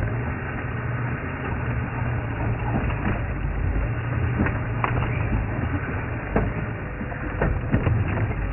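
Safari game vehicle driving off-road: a steady engine drone with scattered knocks, rattles and cracks, like the vehicle jolting over rough ground and brushing through bush.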